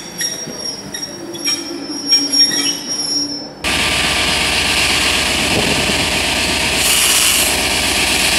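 Railway coaches rolling slowly through a station with a steady high-pitched wheel squeal and light clicks of the wheels. About three and a half seconds in the sound changes abruptly to a Class 67 diesel locomotive's two-stroke V12 engine running, a steady drone under a loud steady hiss.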